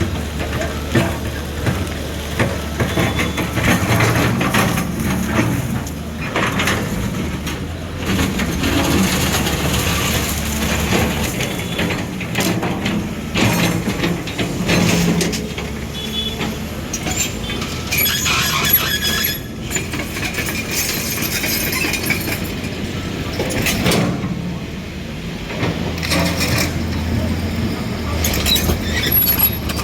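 Demolition-site noise: a heavy machine's engine drones low through the first third and again near the end, under repeated knocks, clatter and breaking of debris.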